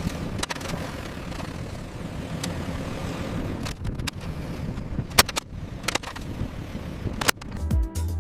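Construction machinery running steadily, with a few sharp knocks along the way. A music beat with a thumping bass comes in near the end.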